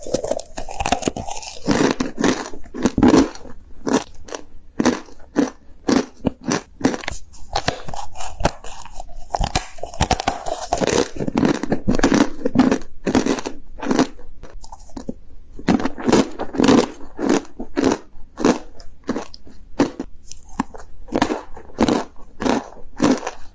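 Close-miked crunching and chewing of compressed corn starch chunks: dense, irregular sharp crackles as the chalky starch is bitten and crushed between the teeth.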